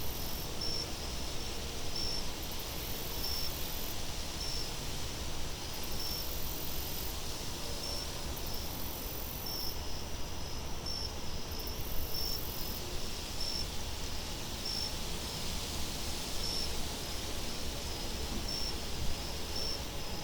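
Crickets chirping in an even, steady rhythm, with a higher insect-like hiss coming and going in spells of a second or so, over a steady low wind rumble.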